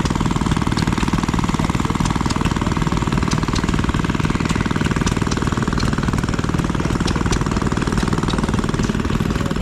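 An engine running steadily at close range, its firing a rapid, even chatter of pulses.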